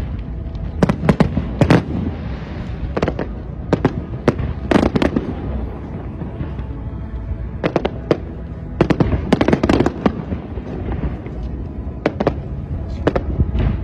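Fireworks bursting overhead in irregular clusters of sharp bangs and crackles, several in quick succession, then a pause of a second or two before the next volley.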